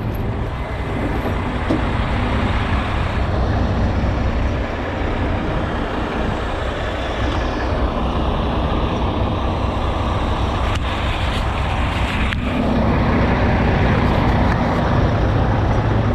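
Heavy truck's diesel engine running loud and steady close by, getting louder about three-quarters of the way through.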